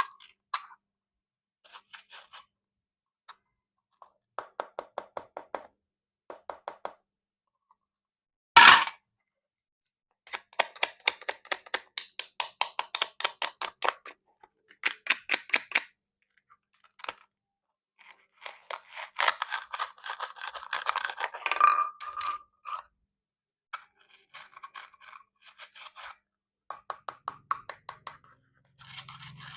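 Plastic toy fruit being cut, in repeated bursts of rapid crackling lasting a second or two each. A single sharp, loud snap comes about a third of the way through.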